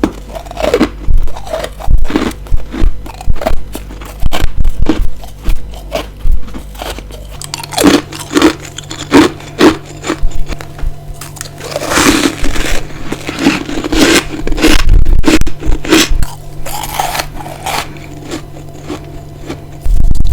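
Close-miked biting and chewing of ice: a run of sharp crunches and grinding chews, growing denser and louder from about eight seconds in.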